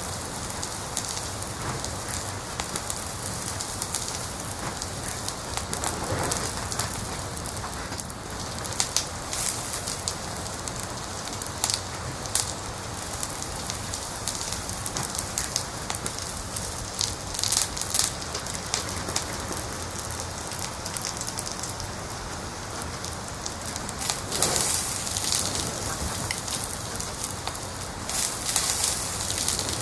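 Wood fire crackling in a fireplace: a steady hiss with frequent sharp pops and snaps, and a few louder clusters of crackles now and then.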